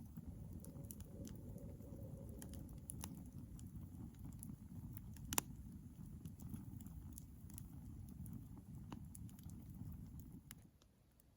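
Campfire crackling: a low rumble of burning wood with scattered sharp pops, one louder pop about five seconds in. It drops away to near silence shortly before the end.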